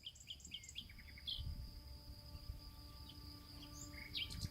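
Forest ambience: a steady, high-pitched insect drone, cricket-like, with short bird chirps over it, a quick run of them in the first second and a few more near the end. A low rumble sits underneath.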